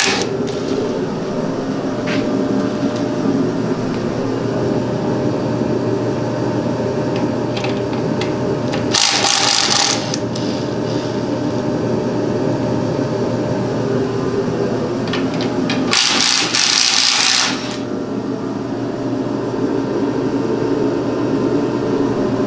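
Steady machine drone with a low hum, broken twice by a loud hissing burst lasting a second or so, about nine and sixteen seconds in.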